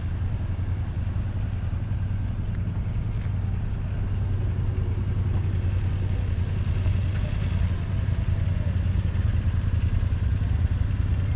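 Motorcycle engine running steadily while riding along, a continuous low hum that grows slightly louder partway through.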